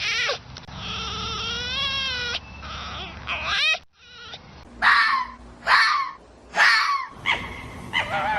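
A vixen (female fox) calling: wavering, crying calls, then three short, loud falling calls about a second apart, and more calls near the end.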